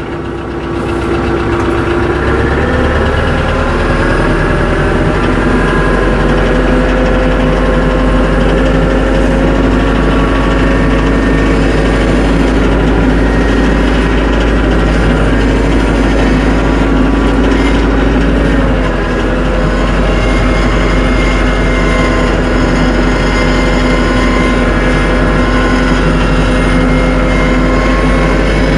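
TYM 474 compact tractor's diesel engine revving up over the first couple of seconds and then running steadily at raised throttle, easing off briefly about two-thirds of the way through.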